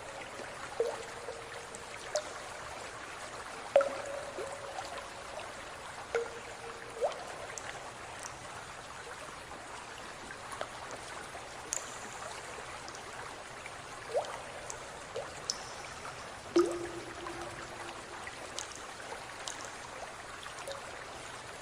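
Water trickling steadily, with irregular drips plinking into the water about every second or two.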